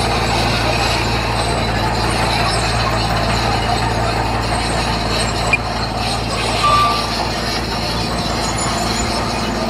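Heavy earthmoving machine's diesel engine running steadily under a rough mechanical clatter, with a sharp knock about five and a half seconds in and a brief beep about seven seconds in.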